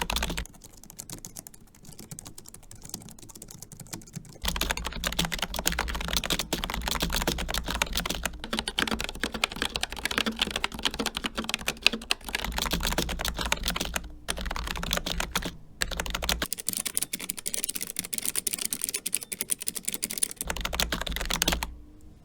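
Continuous typing on a series of keyboards in turn: a Logitech MX Keys with low-profile scissor switches, an Asus ROG Claymore II with ROG RX Red optical linear switches, and a Keychron K3 with Keychron Optical Blue clicky switches. Rapid, steady keystrokes, much quieter for a few seconds near the start.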